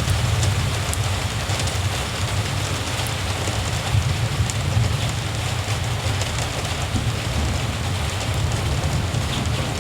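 Steady rain falling, with scattered drop ticks over an even hiss and a continuous low rumble underneath.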